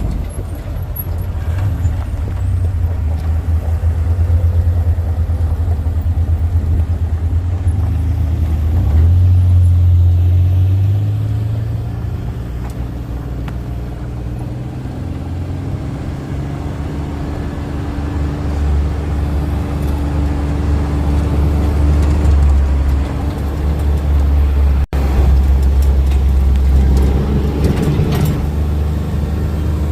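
A motor vehicle's engine running under a heavy low rumble, its pitch rising and falling as it speeds up and slows down. The sound drops out briefly about 25 seconds in.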